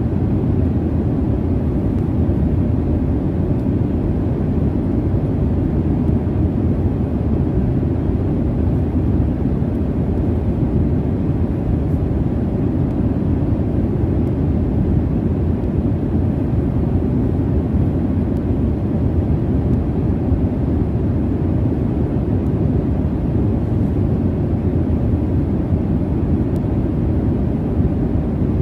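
Steady airplane cabin noise from jet engines in flight: a constant low rumble and rush of air, even throughout with no changes or events.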